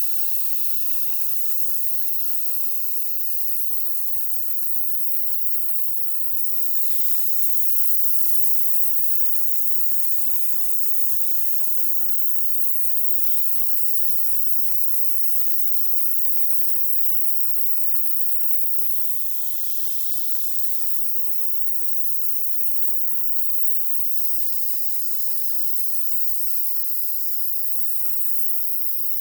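Steady hiss of compressed air from an air-powered gun, shifting slightly in tone a few times and cutting off suddenly at the end.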